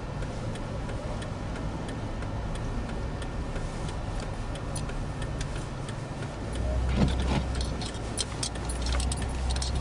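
Car driving, heard from inside the cabin: a low engine and road hum with a light, regular ticking. The hum grows louder about two-thirds of the way through, and a few sharper clicks follow near the end.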